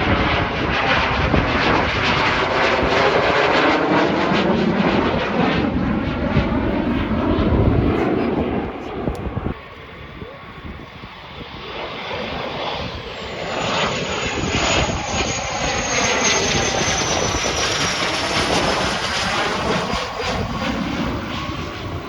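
Turbine-engined aircraft flying past: a loud rushing engine roar with a sweeping, phasing sound that cuts off abruptly about halfway through. A second pass then builds, with a high engine whine that slowly falls in pitch as it goes by.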